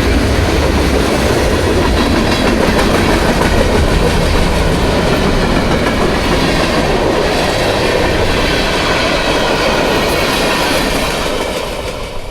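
Freight train cars rolling past at track speed, steel wheels clattering over the rail joints in a steady rumble, fading out near the end.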